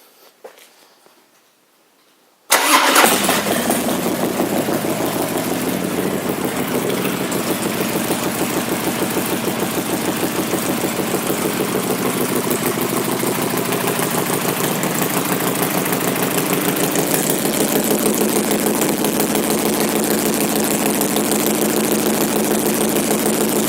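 A 2002 Harley-Davidson Dyna Wide Glide's Twin Cam 88 V-twin, breathing through aftermarket Screamin' Eagle exhaust pipes, is started about two and a half seconds in. It catches at once and settles into a steady idle.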